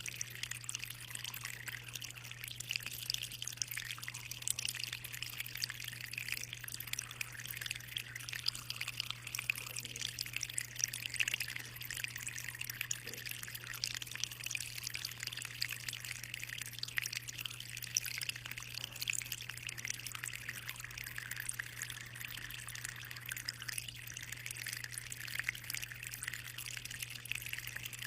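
Aquarium water trickling and splashing steadily, a dense fine patter with a constant low hum underneath.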